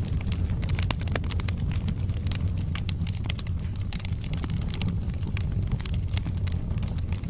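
Wood fire burning in a fireplace: a steady low rumble of the flames with many sharp pops and crackles of burning logs scattered throughout.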